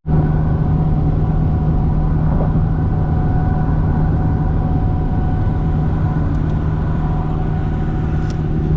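Car driving at steady speed: a constant engine drone with road noise.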